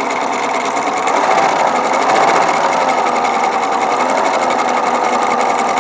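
Husqvarna Viking 950 domestic sewing machine stitching steadily, its motor running quietly with the rapid, even clatter of the needle.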